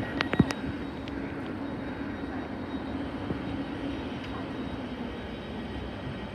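Thameslink Class 700 electric multiple unit running at the platform, a steady hum with a low drone that fades about five seconds in. A few sharp clicks come in the first half second.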